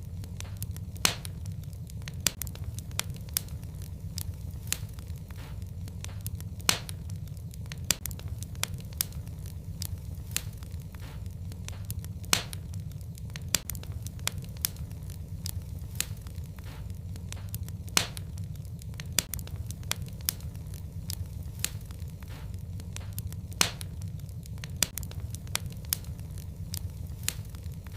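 Fireplace fire crackling: a steady low rumble of the flames under frequent sharp pops and crackles, several a second, with an occasional louder pop every few seconds.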